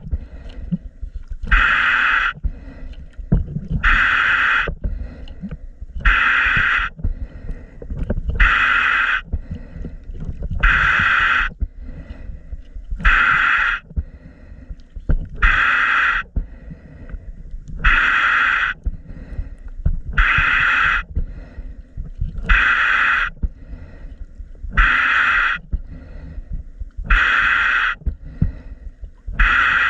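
Scuba diver breathing through a regulator underwater: a hissing breath about every two seconds, with low bubbling rumble between the breaths.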